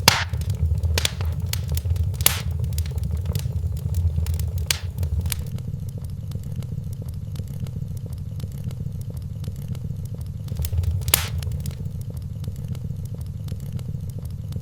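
Wood fire burning in a fireplace: a steady low rumble of flames with sharp crackles and pops, the loudest near the start, about two seconds in, and about eleven seconds in.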